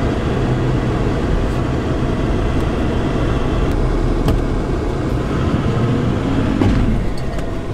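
Toyota LandCruiser Troop Carrier's engine running steadily under load as it reverses, towing a bogged ute and off-road van out of soft sand on a strap.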